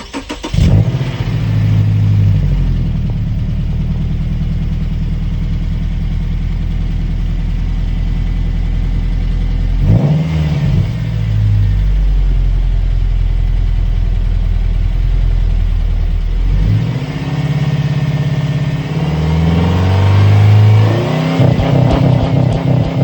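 Subaru Outback boxer engine exhaust, heard through a Nameless dual-chamber muffler with a 5-inch tip. It starts up with a flare of revs and settles to a steady low idle, with a short blip about ten seconds in, then is revved up and down repeatedly over the last several seconds.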